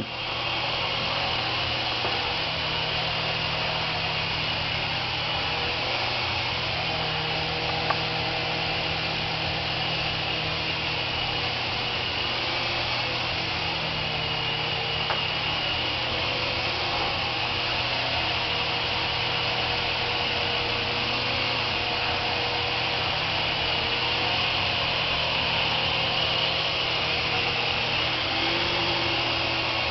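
Syma S107 toy RC helicopter in flight: its small electric motors and coaxial rotors make a steady whirr that is not very loud, its pitch wavering slightly as the throttle changes.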